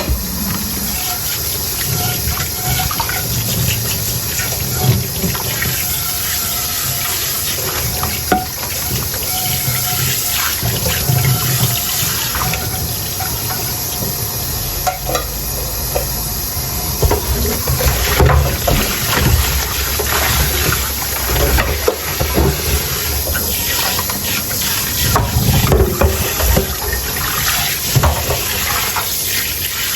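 Tap water running steadily into a sink while dishes are rinsed, with scattered clinks and knocks of dishes being handled under the stream.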